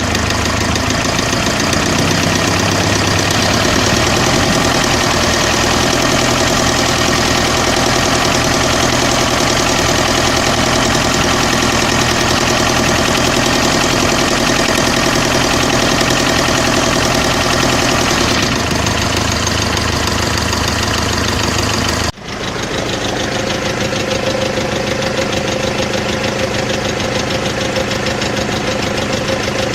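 Mercedes-Benz OM601 2.3-litre four-cylinder diesel engine running steadily at idle with a knock, the engine knock the video is about. About three-quarters of the way through the sound drops out for a moment and comes back with less low rumble.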